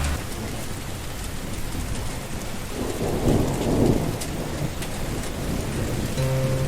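Steady rain falling, with a low rumble of thunder swelling about three seconds in and fading a second later.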